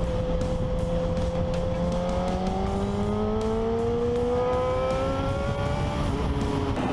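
Motorcycle engine pulling under steady acceleration, its pitch slowly rising, under heavy wind rush. A second vehicle's engine climbs in pitch more quickly through the middle.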